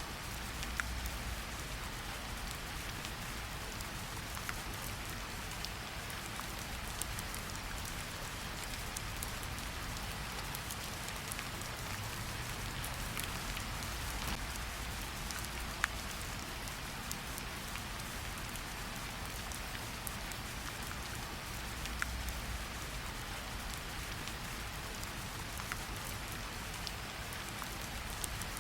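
Steady rain falling on a surface, an even hiss with scattered sharper drop taps and a soft low rumble underneath.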